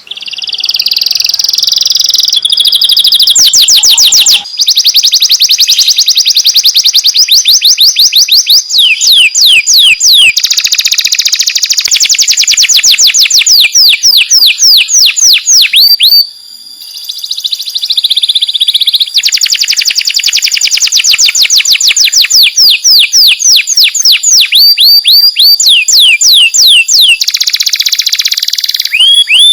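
Canary singing a long, loud song of fast rolling trills: runs of rapid, high-pitched falling notes repeated many times a second, changing from one tour to the next, with a brief pause about halfway through.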